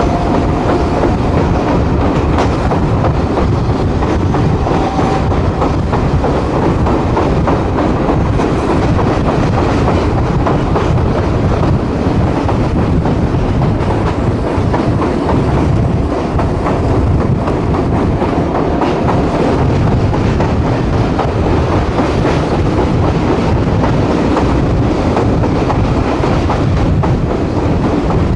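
AES-11 railcar running at speed, heard from on board: a steady, loud rumble of wheels on the rails, with a clickety-clack from the track.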